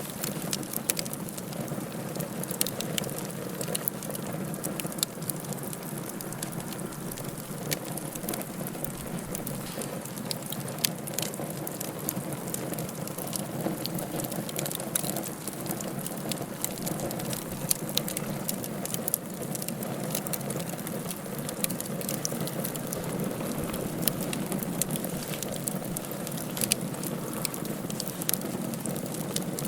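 Wood fire burning in a fireplace: a steady low rushing hiss with frequent sharp crackles and pops scattered throughout.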